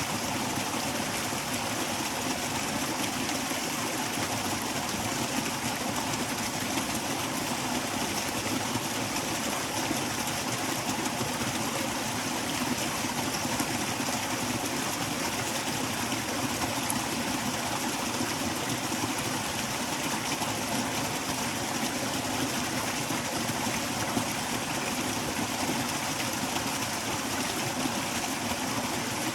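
A forest stream flowing, a steady, unbroken rush of water.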